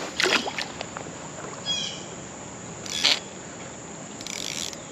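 Insects trilling steadily at a high pitch, with three short noisy bursts about a quarter second, three seconds and four and a half seconds in, and a brief chirping call near two seconds.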